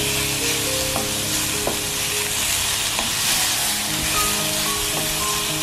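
Raw pork pieces with garlic and shallots sizzling in a hot stainless steel skillet while being stirred with a wooden spatula, with a steady frying hiss. The spatula knocks against the pan a few times.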